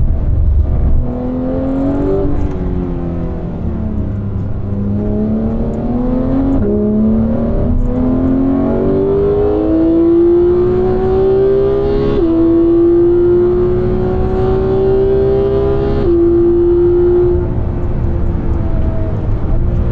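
Porsche 991 GT3's flat-six engine under hard acceleration. The revs fall away briefly, then climb again through a series of upshifts, each heard as a sudden drop in pitch followed by another rising pull.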